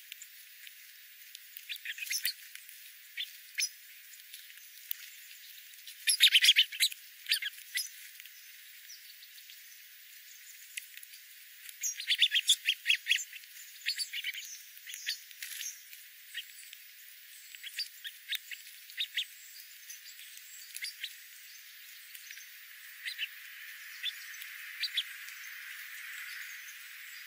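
Birds calling in short, sharp chirps, thickening into rapid chattering clusters about six seconds in and again about twelve seconds in, with scattered single calls between.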